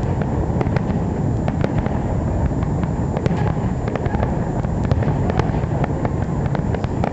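Fireworks going off: a rapid, irregular scatter of sharp crackling pops over a steady low rumble.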